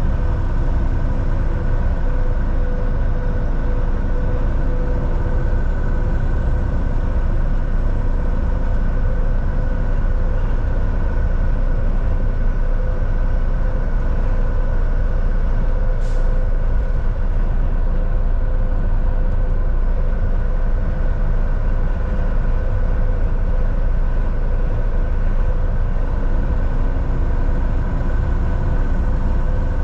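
Volvo VNL 760 semi truck heard from inside the cab: the diesel engine runs with a steady, even drone and low rumble. A single brief click comes about halfway through.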